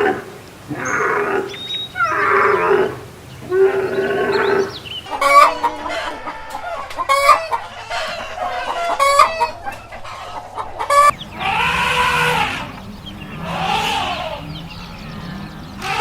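Chickens calling loudly: a run of short pitched calls, then sharp, abrupt calls in quick succession, then longer rising-and-falling calls from about two-thirds of the way through.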